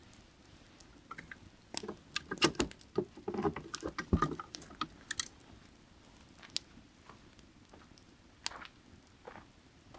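Firewood burning in an open fire, crackling and popping. A dense run of crackles starts about two seconds in and lasts a couple of seconds, then single pops come every second or so.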